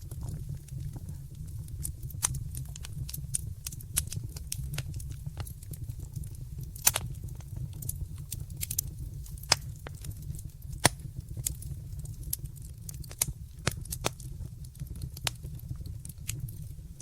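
Wood fire in a fireplace crackling, with irregular sharp pops over a steady low rumble. A few louder pops come about seven, nine and a half and eleven seconds in.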